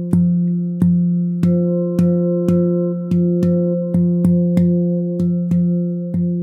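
Stainless steel handpan tuned to F Venus, an F minor scale, played with bare hands: notes are struck about two a second and each one rings on over a loud, steady low tone.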